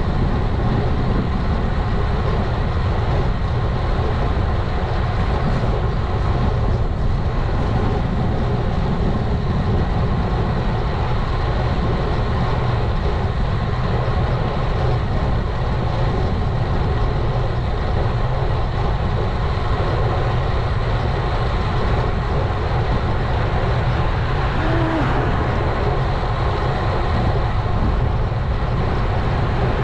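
Steady wind rumble over the action camera's microphone, mixed with road and tyre noise from a road bike riding along at a constant pace.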